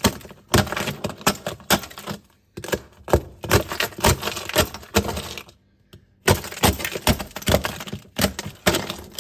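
Wooden spatula chipping and prying at a sheet of ice frozen on the floor of a Samsung refrigerator compartment: a fast, uneven run of sharp cracks and knocks, with a short pause just past the middle. The ice formed from meltwater after the drain behind the twin cooling panel blocked.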